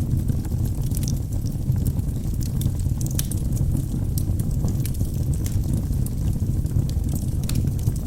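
Wood fire burning in a fireplace: a steady low rumble of the flames with frequent small crackles and pops from the logs.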